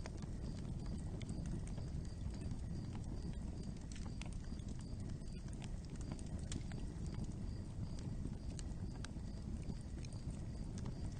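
Real fire crackling: a steady low rumble of burning with frequent irregular pops and snaps.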